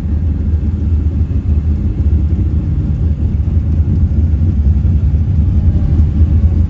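Loud, steady low rumble of the 1966 Plymouth Satellite's 426 Hemi V8, running on a custom single carburetor.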